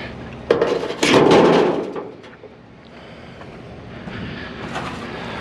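Scrap metal being handled: a sharp knock about half a second in, then a louder clatter lasting most of a second, then quieter rustling.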